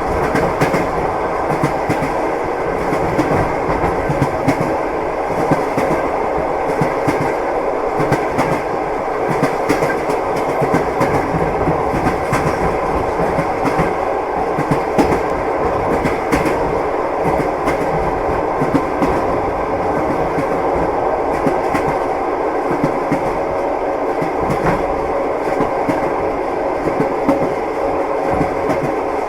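Train wheels clattering over the rail joints with a steady running rumble, heard from inside a moving passenger carriage. Short clicks come again and again over a faint steady hum.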